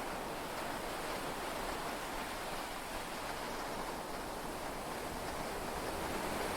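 Steady rush of heavy rain and sea waves heard from inside a yacht cabin during a storm at sea, an even hiss with no separate drops or breaks.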